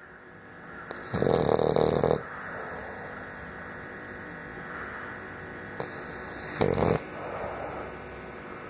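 French bulldog snoring in its sleep: two loud snores, a long one about a second in and a shorter one near seven seconds, with softer breathing between them.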